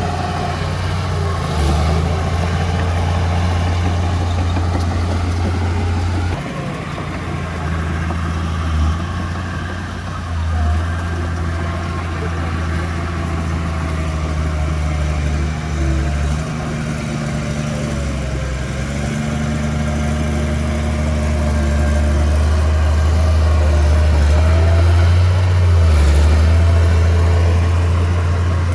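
Diesel engine of heavy earthmoving equipment running with a steady low drone. It dips slightly about six seconds in and grows louder toward the end.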